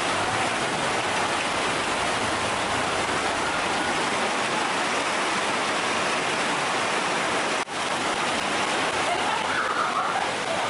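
Steady rush of water, as heavy rain and flowing floodwater, with a momentary dropout about three-quarters of the way through.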